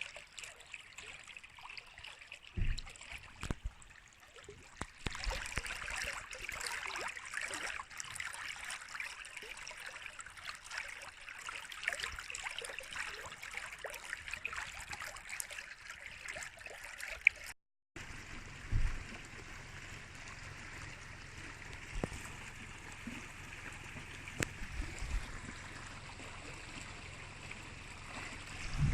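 Rain falling steadily, with water running and trickling. A few brief low thumps stand out, the loudest near the end, and the sound cuts out abruptly for a moment a little past halfway.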